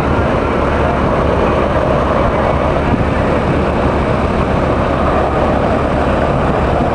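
Helicopter in flight: steady, loud engine and rotor noise with a deep rumble.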